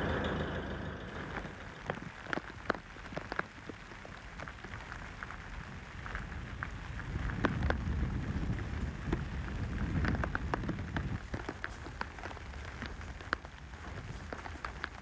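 Rain pattering: irregular sharp drop ticks over a steady low noise.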